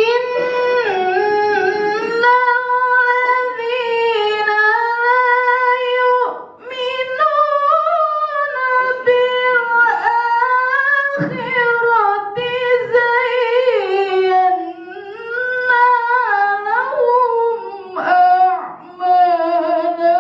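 A woman reciting the Qur'an in Arabic in the melodic tilawah style, drawing out long ornamented notes that waver up and down, with short breath pauses about six and eleven seconds in.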